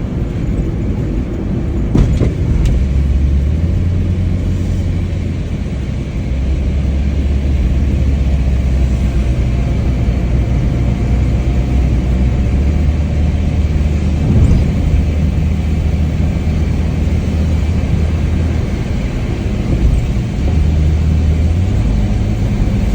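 Mitsubishi Lancer on the move in heavy rain: a low engine and road rumble that shifts up and down in steps, under a steady hiss of rain and wind, with one click about two seconds in.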